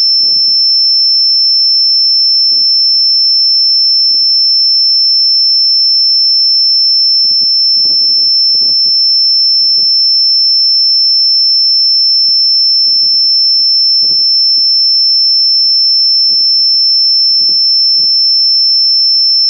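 A loud, steady, high-pitched electronic tone held without a break, with faint low gusty rumbles underneath.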